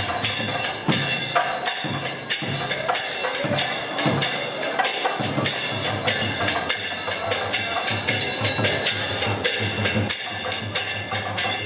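Live drum music with drums struck in a quick, busy rhythm and a held, pitched melody instrument sounding over the beat.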